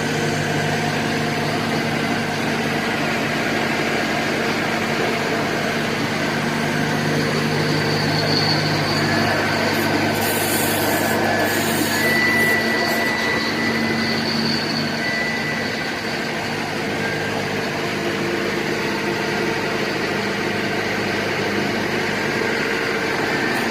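Engine and hydraulic drive of a Type 700 fully hydraulic drilling rig running steadily, a continuous mechanical drone with a held hum. The low part of the hum shifts about halfway through, and a brief high hiss comes in around ten to twelve seconds in.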